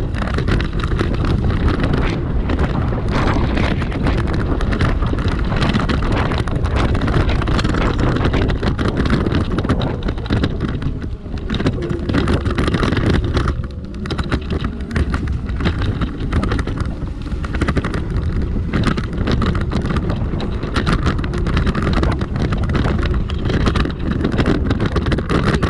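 Wind buffeting the microphone over the rumble of a dual-motor electric scooter riding over rough off-road ground. It is loud and steady, easing briefly about halfway through.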